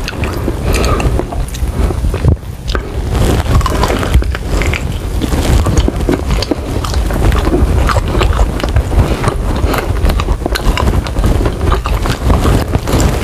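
Close-miked eating of sauced chicken wings: chewing and lip smacking with many small clicks and crunches, over a steady low rumble.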